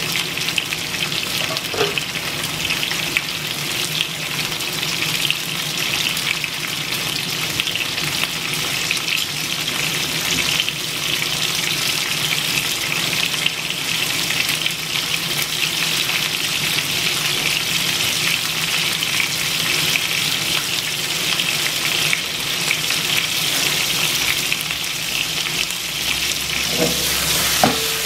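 Green peppers frying in hot oil in a wok under a splatter screen: a steady, dense crackling sizzle. Near the end a short knock with a brief ring as the screen is lifted off.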